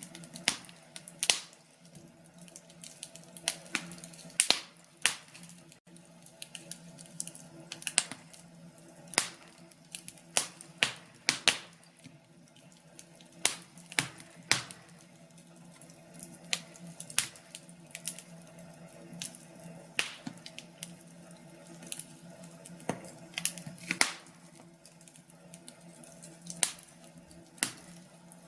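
Wood fire crackling in a fireplace: sharp, irregular pops and snaps at uneven intervals over a soft hiss, with a faint steady hum underneath.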